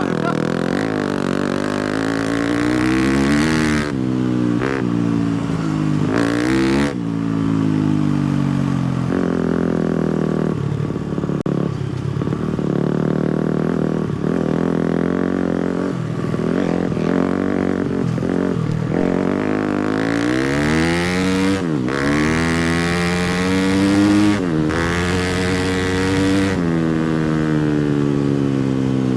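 250cc four-stroke motocross bike engine being ridden, revs climbing and falling with the throttle. It has several quick hard climbs and drops in pitch in the second half.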